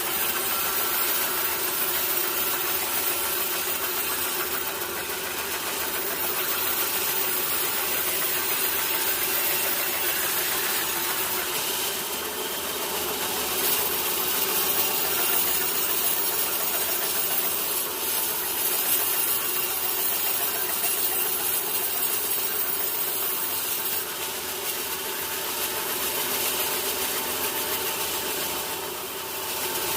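Sawmill machinery running steadily while sawing teak logs: a continuous mechanical drone with a hiss that swells now and then.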